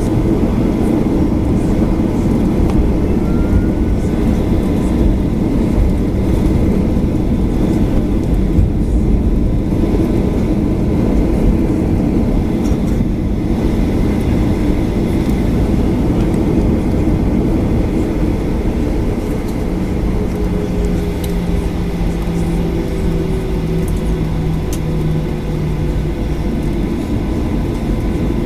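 Cabin noise inside a Boeing 737-800 with its CFM56 engines running: a loud, steady rumble of engine and airframe noise. A steady low hum comes in about twenty seconds in and stops a couple of seconds before the end.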